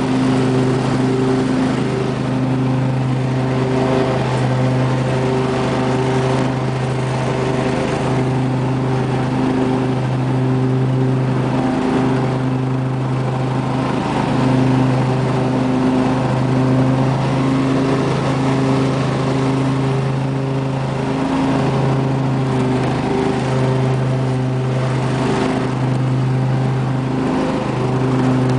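Lawn tractor's 24 hp Briggs & Stratton V-twin engine running steadily at an even pitch.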